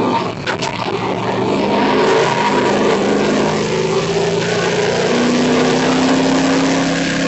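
1970 Chevrolet Chevelle's engine heard from inside the cabin, accelerating hard out of a corner onto a straight. It dips briefly about half a second in, then its pitch climbs steadily as the car gathers speed.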